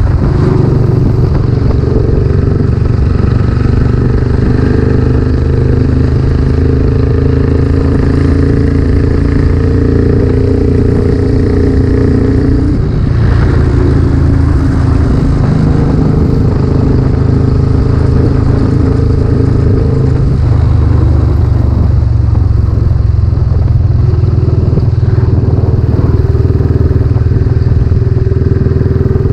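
Royal Enfield Classic 500's air-cooled single-cylinder engine running at road speed through a newly fitted aftermarket silencer. The engine note shifts about 13 seconds in and again around 21 seconds, then settles back to a steady run.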